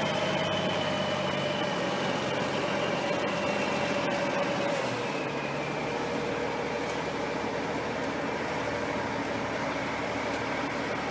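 Heavy semi truck running, with a steady mechanical din and a faint whine that slowly falls in pitch, settling lower about five seconds in.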